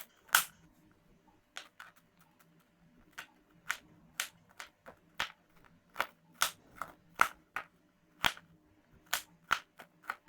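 A knife chopping fresh root ginger on a chopping board: sharp, irregular strikes of the blade on the board, about two a second, some in quick pairs.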